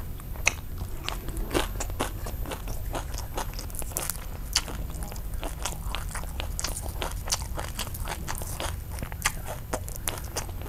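Close-miked chewing of a nem nướng rice-paper roll with crispy fried rice-paper filling: irregular crunches and wet mouth clicks over a steady low hum.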